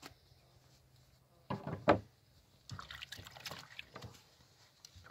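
Wet, squelching sounds of a chicken's innards being pulled and handled during gutting, with a short loud splat about two seconds in and a crackly run of wet clicks after it.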